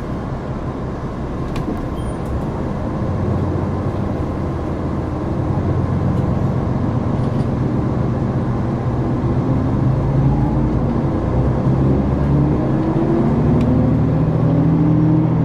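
KiHa 261 series diesel railcar's engine heard from inside the carriage while under power, its note rising steadily through the second half as the train accelerates.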